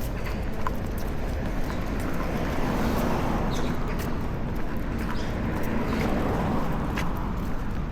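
Street traffic: the noise of passing cars swells and fades twice, loudest about three and six seconds in, with a few light clicks over a steady low rumble.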